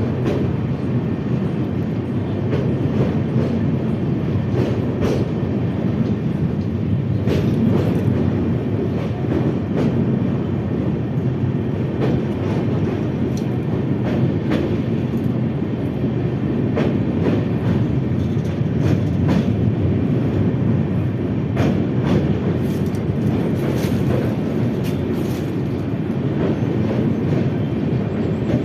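Train running over the Beas river bridge: a steady rumble of wheels on rail, with sharp clicks every second or two as the wheels cross rail joints.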